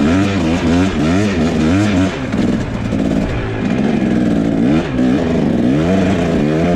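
Enduro motorcycle engine at close range, revving up and down over and over as the throttle is worked, with the tyre scrabbling for grip on a slippery snow-covered trail.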